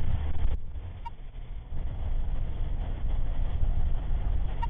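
Steady low rumble of a vehicle on the move, with two short beeps, one about a second in and one near the end.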